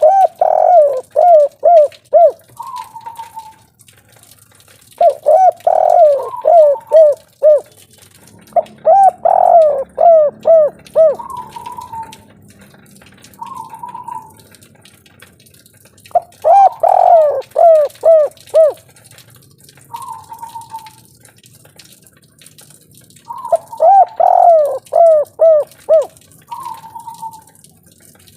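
Spotted dove (tekukur) cooing its 'kuk 3' song: five phrases a few seconds apart, each a short higher note followed by a quick run of about five lower, dropping coos, with short single notes between phrases.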